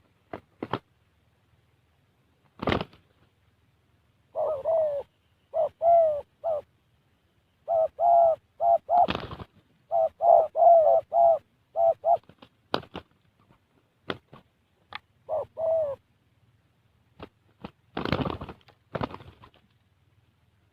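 Spotted dove (tekukur) cooing in several phrases of short, low, rounded notes. Sharp clicks and knocks are scattered between the phrases; the strongest come about three seconds in and again near the end.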